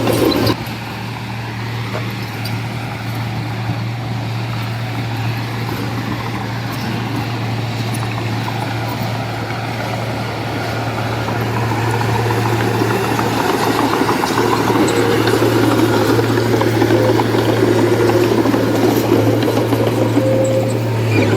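Heavy diesel engine of construction machinery running steadily, getting louder and rougher from about halfway through as the machine works harder.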